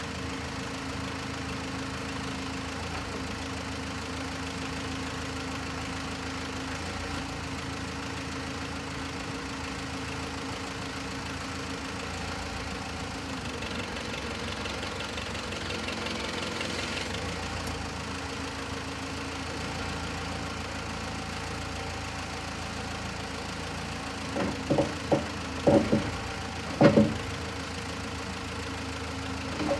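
Case 580B backhoe's engine idling steadily. A few short, loud knocks come near the end.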